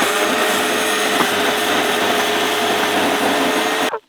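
Chainsaw running steadily at high revs while cutting the tree, cutting off suddenly near the end.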